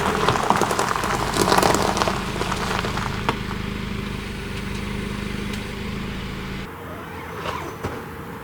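A motor hums steadily under scattered clicks and rattles, then stops abruptly about seven seconds in, leaving only light clicking.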